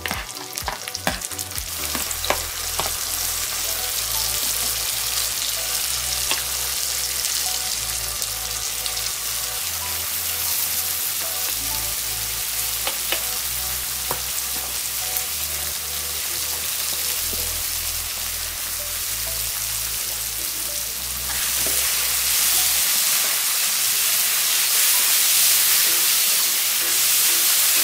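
Chopped tomato and spinach sizzling as they fry in hot oil in a wok, with a few sharp clicks as they go in and the sounds of stirring. The sizzle grows louder about three-quarters of the way through.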